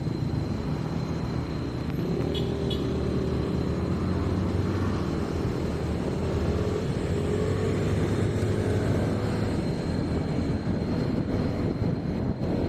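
A motor vehicle running steadily on the move, with a continuous low engine rumble and road noise.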